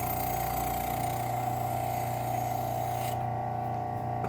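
Bench grinder running a Scotch-Brite wheel with a steady hum and whine. A knife's steel is held to the wheel to buff off rust, giving a high hissing scrub that stops about three seconds in while the motor keeps running.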